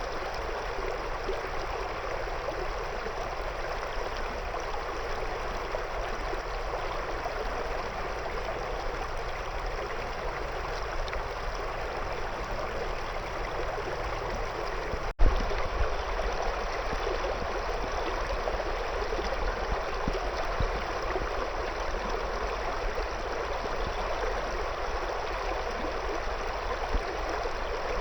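River water flowing over and around stones, a steady babbling rush. About halfway through there is one brief click.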